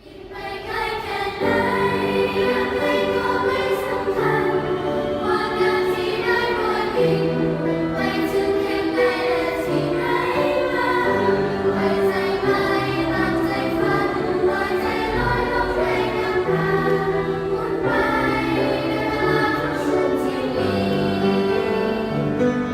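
A choir singing in harmony, several voice parts holding long notes that change together every second or so. It swells in over the first second or two.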